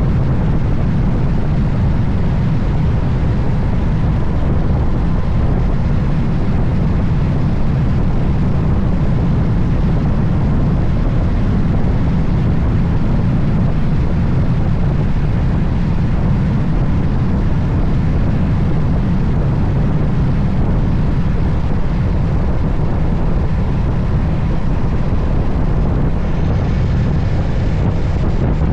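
Steady, loud wind rush on the microphone of a moving motorcycle, a Moto Guzzi Stelvio, heaviest in the low end, with the bike's engine and road noise running underneath.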